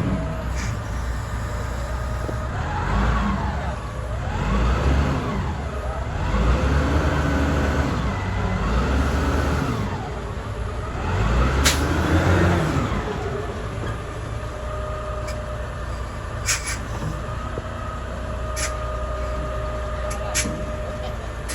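Heavy diesel engine revving up and falling back about five times in a row, then settling to a steady run. A few short, sharp clicks come in the second half.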